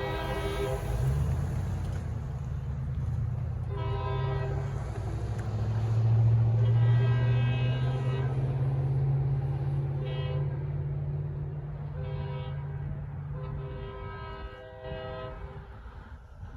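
EMD SW1500 switcher locomotive sounding its horn for a grade crossing: about six blasts, the longest about two seconds long in the middle and one short, over the low rumble of its diesel engine, which grows louder midway and fades near the end.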